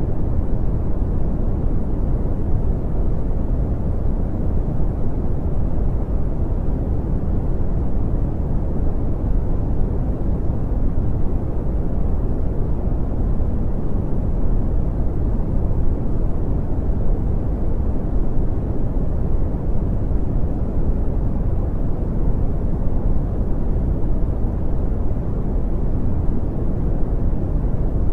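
Steady brown noise: an even, deep rumbling hiss, strongest in the bass and falling away in the treble, with no changes.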